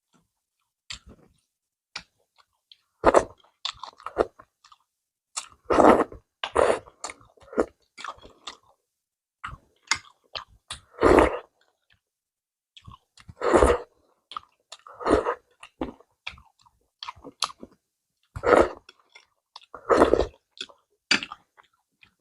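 A person chewing and biting food in irregular bouts, each a second or so long, with short quiet gaps between them.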